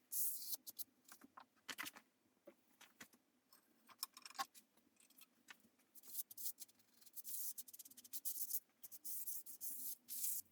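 Hand rubbing work on wood: short, scratchy strokes that come in irregular bursts, with small clicks and knocks in between.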